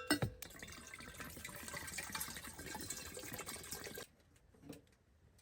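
Water pouring into a container for about three and a half seconds, then stopping suddenly.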